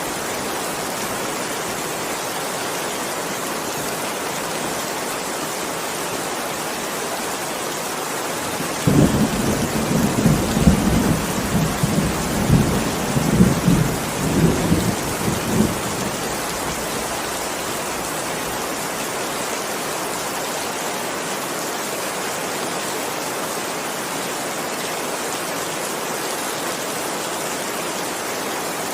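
Steady heavy rain hissing throughout. A rolling rumble of thunder swells up about a third of the way in and rumbles on for about seven seconds before fading back into the rain.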